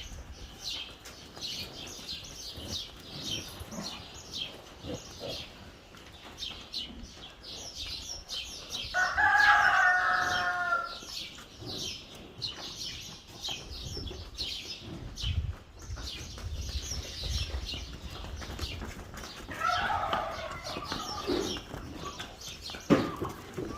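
A rooster crows twice: a loud call of about two seconds roughly nine seconds in, and a fainter one some ten seconds later. Small birds chirp steadily throughout.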